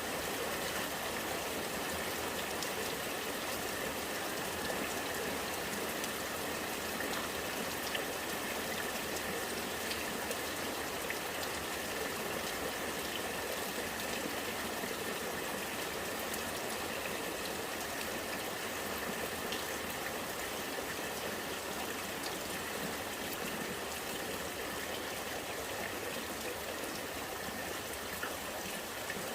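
Rain falling, with rainwater running and gurgling steadily, and scattered drops ticking sharply on top.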